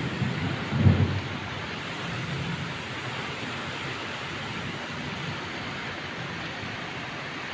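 Steady rain falling, an even hiss throughout, with a brief loud low rumble about a second in.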